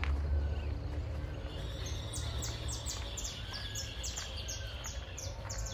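A bird calling in a rapid series of short, high, descending chirps, several a second, starting about two seconds in and running until near the end. A steady high whine runs alongside, over a low rumble that fades after the first second or so.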